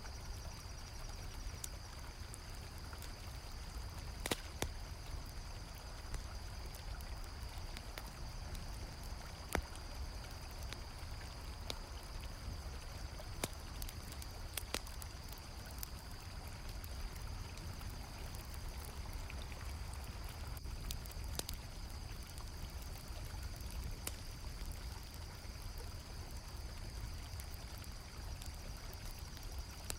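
River water flowing steadily, with a campfire crackling in scattered sharp pops and crickets chirping in a steady high trill.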